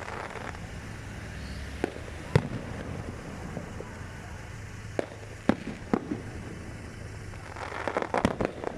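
New Year fireworks going off: single sharp bangs at intervals, then a quick run of crackling bangs near the end, over a steady low background rumble.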